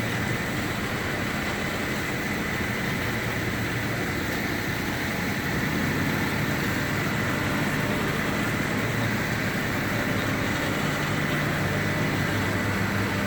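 A steady, unchanging engine hum, like a diesel or car engine idling, over a constant background noise, with no crashes or knocks.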